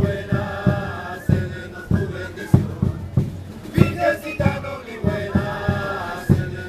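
Music of a Chilean religious dance troupe (baile religioso): drums beating a steady rhythm of about three strokes a second under a repeating melody line.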